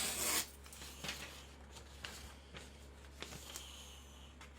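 A chopper's steel blade ends a short hissing scrape in the first half second. After that come only a few faint light ticks and handling noises.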